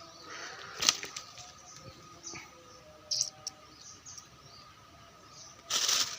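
Birds chirping faintly in short calls over a steady outdoor background, with a click about a second in and a short burst of noise near the end.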